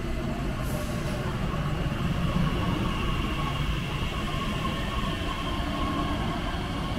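Train moving on the track: a steady rumble with a faint, even whine held over it.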